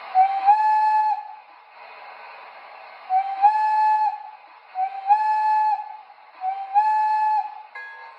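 O scale model steam locomotive's electronic sound system blowing its whistle four times, each blast about a second long and stepping up in pitch just after it starts. A steady fainter locomotive running sound continues between the blasts.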